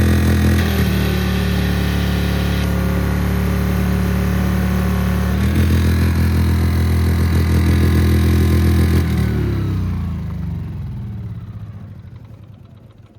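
Engine of a Seiwa Jet Clean JC-1513DPN+ high-pressure washer running, its note changing about a second in and again near six seconds as the load shifts. About nine seconds in it is shut off and runs down to a stop.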